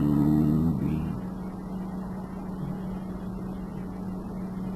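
A steady low hum throughout, with a short voice-like sound in the first second.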